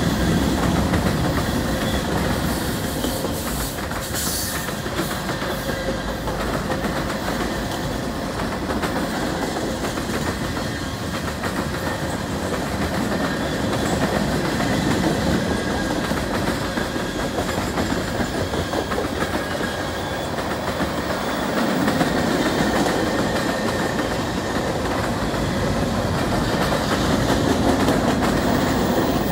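Cars of a CN mixed freight train rolling past at steady speed: a continuous rumble of steel wheels on rail with rapid wheel clicks over the rail joints.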